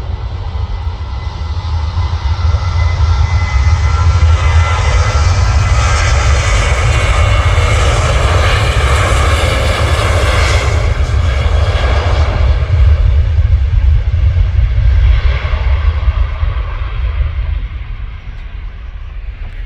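Jet airliner's engines passing close by: a deep rumble with a whine of several tones above it. It swells over the first few seconds, stays loud through the middle, then fades toward the end.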